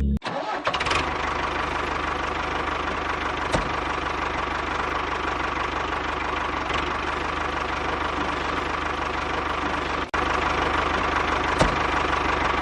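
Small engine on a miniature DIY tractor water-pump rig running steadily with a fast, even knocking beat. The sound cuts out for an instant about ten seconds in, then carries on.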